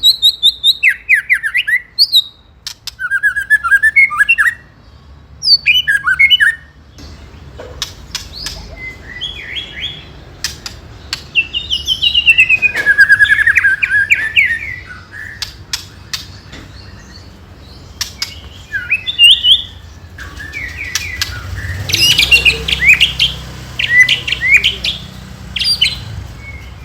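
White-rumped shama singing in loud bursts of varied phrases: fast rattling runs of repeated notes (ketrekan), sharp clicks and gliding whistles. It is an aggressive fighting-style song, the kind used to provoke another male shama into singing back.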